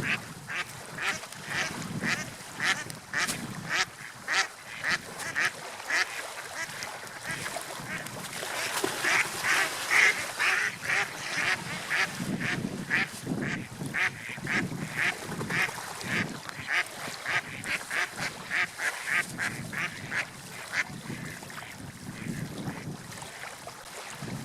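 Birds calling over and over in quick series, about three short calls a second, with water washing underneath. The calls fade out near the end.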